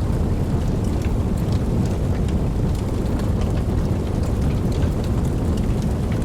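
Campfire burning: a steady low rushing of the flames with many small sharp crackles and pops, several a second.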